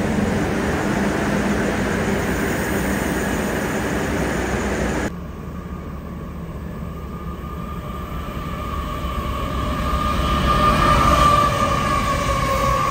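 A passenger railcar passing close by with loud wheel-on-rail noise, cut off sharply about five seconds in. Then a diesel-hauled coal train approaches, its locomotives rumbling under a steady high-pitched whine that grows louder and then eases.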